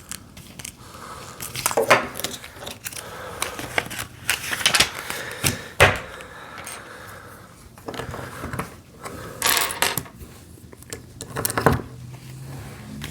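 Plastic Lego bricks from the Winter Holiday Train set 40700 being handled and pressed together: irregular sharp clicks and short rattles of pieces.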